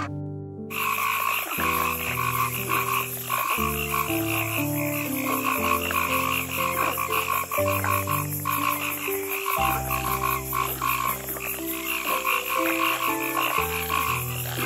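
Frogs croaking in a dense chorus, a fast pulsing trill that starts just under a second in and keeps going. Soft background music with slow held chords plays beneath it.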